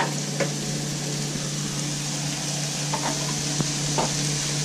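Ground beef and chopped vegetables frying in a skillet with a steady sizzle. A wooden spatula clicks against the pan a few times near the end as the meat is stirred.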